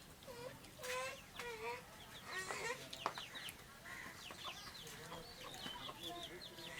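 Domestic chickens clucking: a string of short calls, with higher thin chirps among them and one sharp click about three seconds in.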